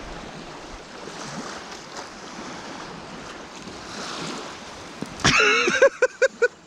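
Wind and choppy water noise around a small boat. About five seconds in, a man calls out and then laughs in short, quick pulses.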